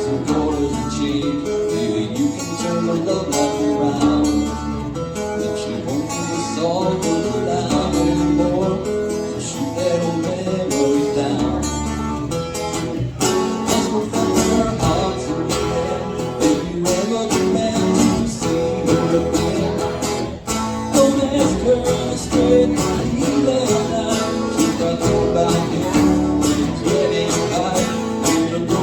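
Live country music led by an acoustic guitar, strummed in a steady rhythm.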